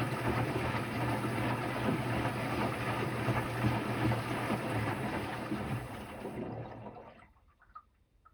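Electrolux Quickwash commercial washing machine moving water during a rinse: a steady low hum with rushing, gurgling water. The high hiss cuts off about six and a half seconds in and the rest fades out soon after, leaving a few faint ticks.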